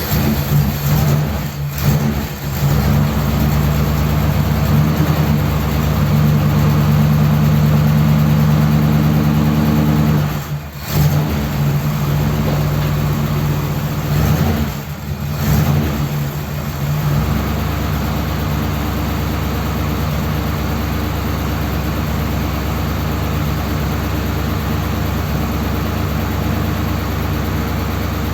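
Ford Thunderbird's carburetted engine running just after a first start from long storage, held at raised revs, dropping briefly twice, then settling into a steadier, lower idle. The idle is a little rough; the car has no choke.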